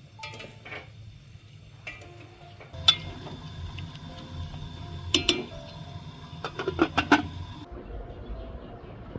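Dishes and kitchen utensils clinking and knocking in a few sharp, ringing strikes: one about three seconds in, two a little after five seconds, and a quick cluster around seven seconds.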